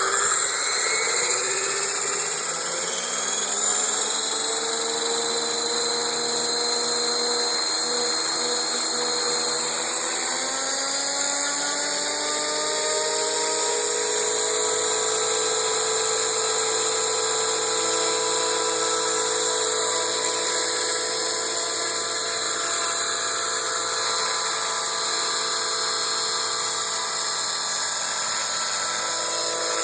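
Radio-controlled AS350B model helicopter's motor and rotors whining. The pitch sinks over the first few seconds, climbs again about ten seconds in, then holds steady.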